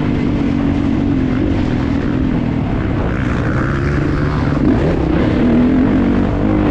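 Kawasaki KX450 motocross bike's four-stroke single-cylinder engine running hard under throttle. Its note drops about halfway through and climbs again as the throttle is rolled off and opened back up.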